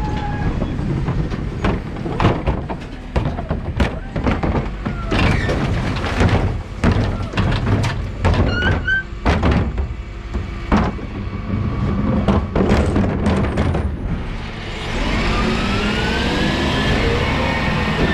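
Wheelie bins being emptied into a Dennis Elite 6 refuse truck: a run of irregular knocks and thuds as bins are lifted, tipped and banged down. About fifteen seconds in, the truck pulls away, and its drivetrain whine rises and falls over the engine rumble.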